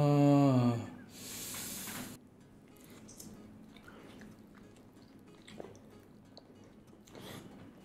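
A man's long hummed "mmm" in the first second, then about a second of hissing noise, then quiet chewing with small wet clicks: eating fried chicken coated in Super Ring snack.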